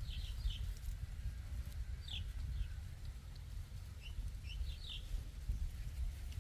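Short, high bird chirps in small clusters every couple of seconds, over a steady low rumble.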